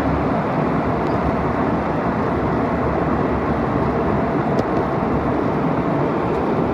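Steady cabin noise inside a Delta airliner during its approach and landing: jet engines and airflow as a constant, even rumble with no change in pitch or level.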